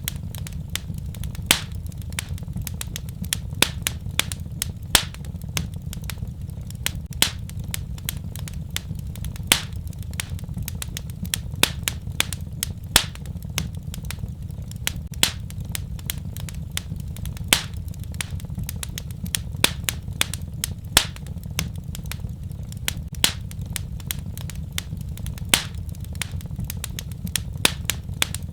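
Wood fire crackling: irregular sharp pops and snaps, several a second, some louder, over a steady low rumble of the burning fire.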